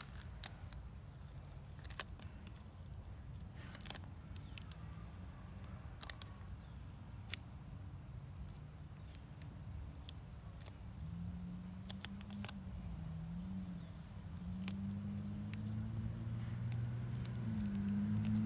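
Low outdoor rumble with a few small handling clicks, then from about two-thirds of the way through a wavering engine hum from a passing vehicle that grows steadily louder near the end.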